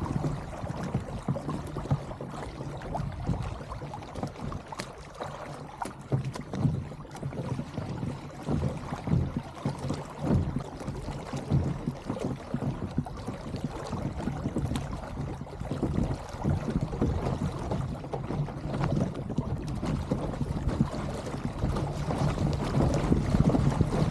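Kayak moving over open sea water: uneven splashing and sloshing against the hull, with a low rumble throughout.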